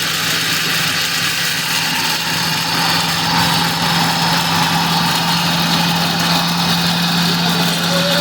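A motor or engine running steadily with a constant low hum and a hissing noise, with no change in speed.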